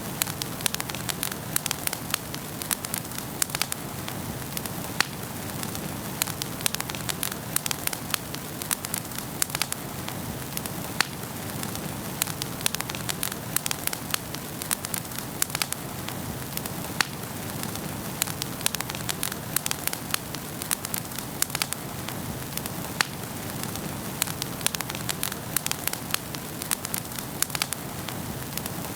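Wood fire burning in a fireplace: a steady hiss with irregular sharp crackles and pops, several a second.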